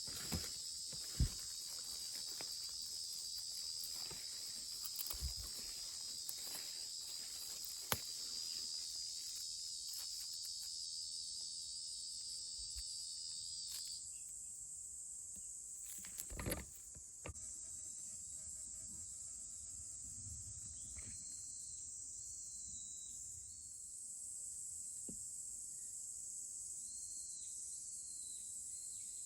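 Summer insects singing in steady high-pitched drones, with one song stopping about halfway. Light knocks and rustles sound in the first half, and a short louder rustle comes a little past the middle.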